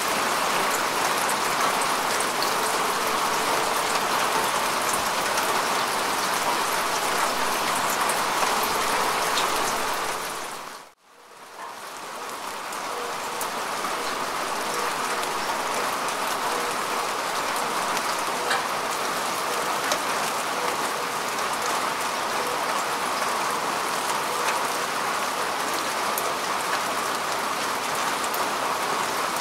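Steady rain falling on grass and earth, a dense patter with scattered single drops. About a third of the way in the sound drops away to near silence for a moment, then swells back up to full strength over a couple of seconds.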